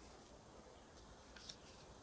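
Near silence, with a faint short crinkle of paper being handled or creased about one and a half seconds in.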